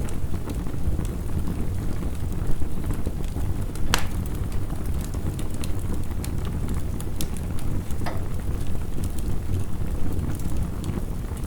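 Crackling wood fire, with scattered sharp pops over a steady low rumble; the loudest pop comes about four seconds in.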